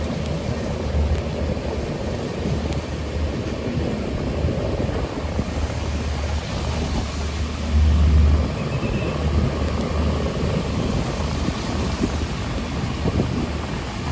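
Janshatabdi Express passenger train running: a steady rumble of the coaches on the track, with a low pulsing roar that swells louder about eight seconds in.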